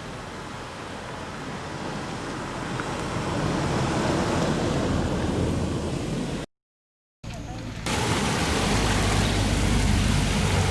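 Steady rushing of flowing stream water, rising about four seconds in. It breaks off for a moment at a cut and comes back louder with more low rumble.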